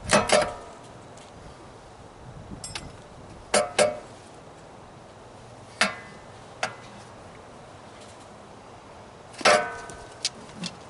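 Several short metal clanks and clinks, some ringing briefly, of tools and parts knocked together while an air compressor is taken apart. The loudest come right at the start and near the end.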